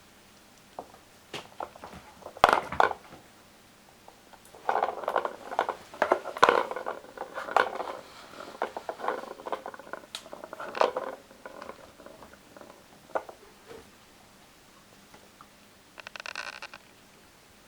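Scattered taps, knocks and rustling, thickest from about five to eleven seconds in, with a short rattle near the end.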